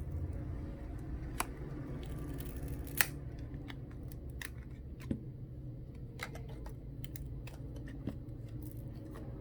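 Scattered small clicks and ticks as the smartphone's glued back glass is pried and lifted off with a plastic opening tool, over a steady low hum.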